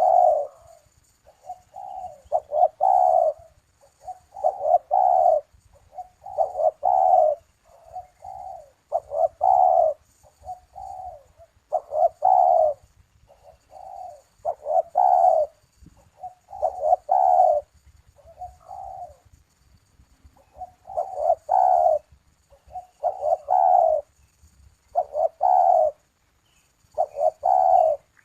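Puter (collared dove) cooing over and over in repeated phrases, one about every two seconds, with a couple of short pauses.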